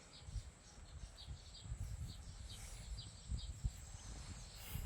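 Faint outdoor ambience of scattered short bird chirps over a steady high insect drone, with low rumble and bumps underneath.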